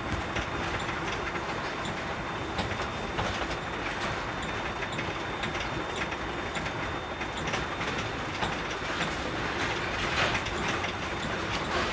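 Container truck on the move, heard from the cab: diesel engine and road noise with frequent rattles and knocks from the cab and trailer, and a thin steady high whine.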